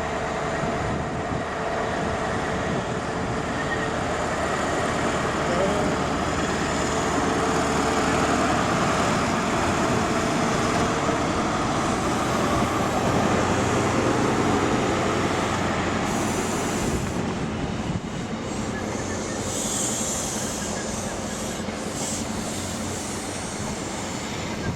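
LNER High Speed Train (InterCity 125) pulling into the station behind its class 43 diesel power car: a steady engine drone with wheel and rail noise, loudest about halfway through and easing off after. A brief high squeal comes a few seconds before the end.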